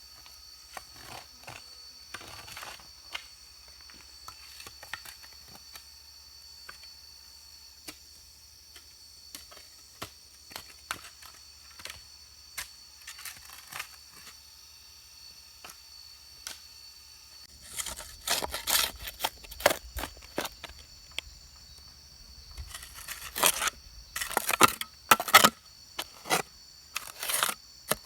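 Manual work sounds: scattered light clicks and ticks, then two stretches of quick, loud scraping and tearing strokes more than halfway through, over a faint steady high-pitched tone.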